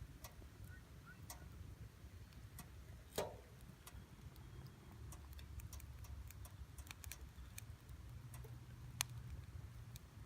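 Campfire wood crackling as the fire catches: sparse, irregular sharp pops and clicks, one louder pop about three seconds in and a sharp crack near the end, over a low rumble.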